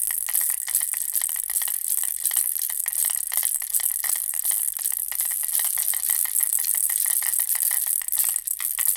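A plastic baby rattle, a bear holding a ball, shaken continuously in quick lively rattling, its beads clattering in a dense run of small clicks.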